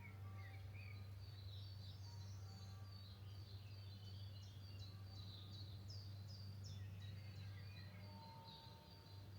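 Small songbirds singing, quick irregular high chirps and trills, over a steady low hum.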